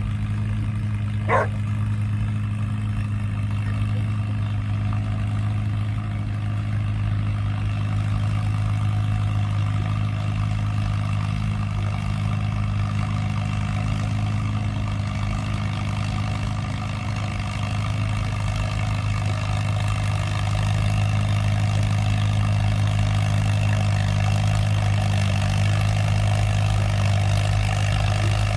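Antique farm tractor engine running steadily at a constant speed, growing slightly louder about two-thirds of the way through. A single short, sharp sound cuts in about a second in.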